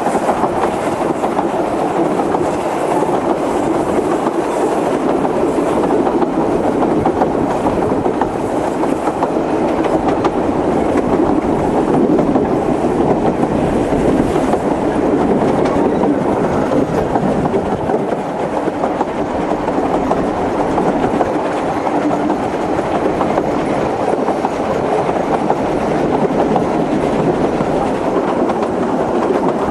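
Isle of Man Steam Railway's 3 ft narrow-gauge train running along the line, heard from aboard: a steady rumble of wheels on rails with faint repeated knocks from the track.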